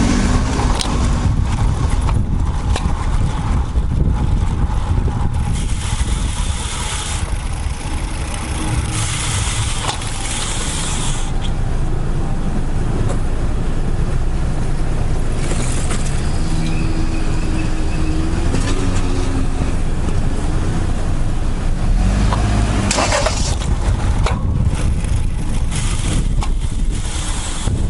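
Wind rumbling on a bicycle-mounted action camera's microphone while riding in road traffic. Passing motor vehicles come and go as louder hissing stretches.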